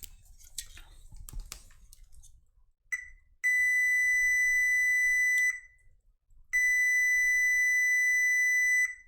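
Multimeter continuity beeper sounding: a short beep, then two steady high beeps of about two seconds each, starting and stopping sharply. The beeps mark a low-resistance path across the optocoupler pins, which the repairer takes for a possible short. Light clicks of the probes come in the first second and a half.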